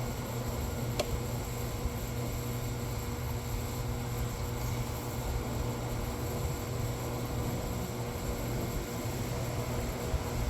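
Steady background hum and hiss, with one short sharp click about a second in.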